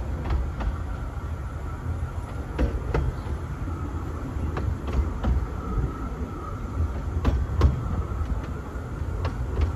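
Carriage of a 15-inch gauge miniature railway rolling slowly, heard from on board: a steady low rumble with wheels clicking over the rail joints, often in quick pairs, every second or two.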